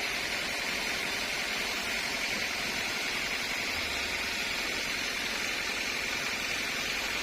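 Sawmill machinery running steadily: an even, hissing mechanical noise with no distinct knocks or changes.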